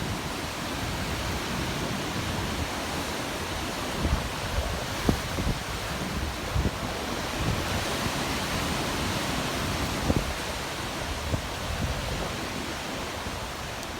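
Typhoon wind and rain: a steady rushing noise, with gusts buffeting the microphone in low thumps now and then.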